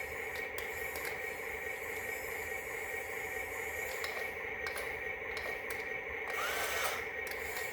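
A small electric motor, such as that of a battery-powered toy tractor, whirring steadily, with scattered light clicks.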